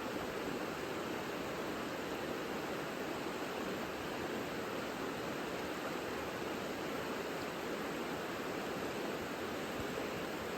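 Savica river flowing: a steady, even rush of water.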